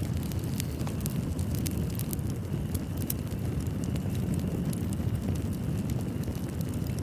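Wood fire crackling in a fireplace: a steady low rumble of burning with irregular sharp pops and snaps.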